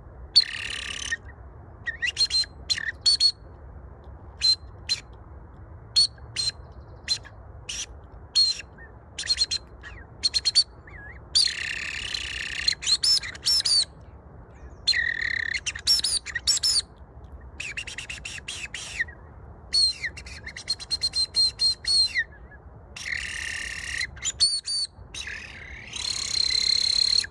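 FC09 electronic game caller playing recorded birdsong through its speaker: a changing run of chirps, single notes and longer trills, all high-pitched and thin, in bursts with short gaps between. It is bird-song playback used as a lure for foxes and other predators.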